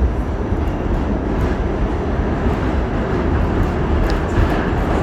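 R46 subway car running through the tunnel: a steady rumble of wheels on rail with a few faint clicks.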